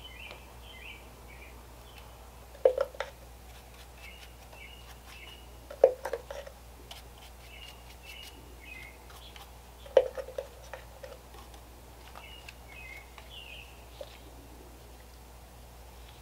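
Bird chirping in short repeated notes, with three sharp knocks about three seconds apart, each followed by a few softer taps.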